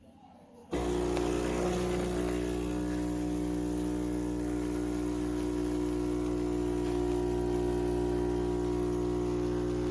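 Philips 4300 automatic espresso machine's pump starting about a second in and running with a steady hum, pushing water through during brewing.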